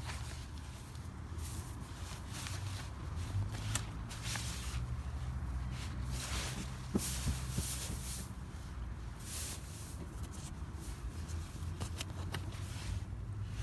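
Irregular rustling and scuffing noises, over a steady low rumble.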